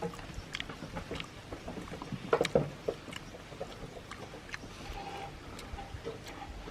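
Someone chewing and smacking food with the mouth: a scatter of short wet clicks and smacks, loudest about two and a half seconds in.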